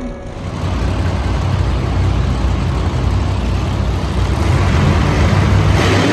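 Monster truck engine running loud, swelling in about half a second in and building to its loudest near the end.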